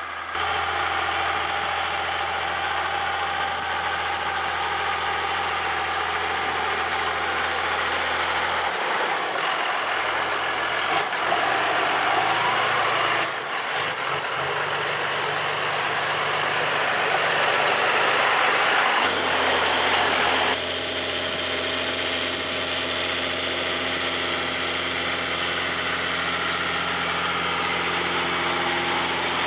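John Deere 6150R tractor's six-cylinder diesel engine running steadily under load, pulling a plough through a rice paddy. Its tone changes abruptly a few times.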